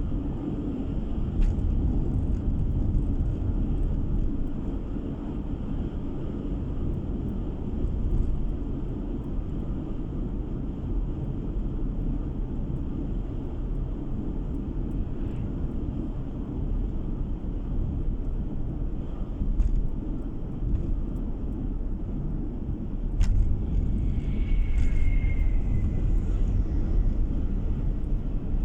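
Steady road and engine rumble of a car driving, heard from inside the cabin. Near the end, a sharp click is followed by a brief high squeak.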